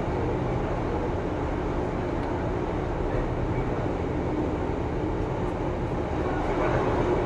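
Diesel passenger train running on the line, a steady, even rumble with no distinct knocks or horn.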